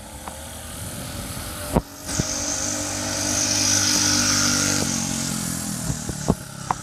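Small engine of a racing go-kart or minibike running at full throttle, growing louder as it approaches, loudest about four seconds in, then dropping in pitch as it passes. A sharp knock sounds a little under two seconds in.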